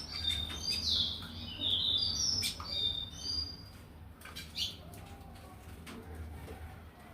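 Small songbird chirping: a quick run of short high notes that step up and down in pitch, thinning out to a few scattered chirps after about three and a half seconds, with light clicks in between.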